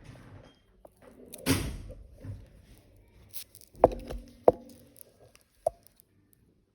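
Handling noise: a brief rustle, then three sharp knocks, each with a short ring.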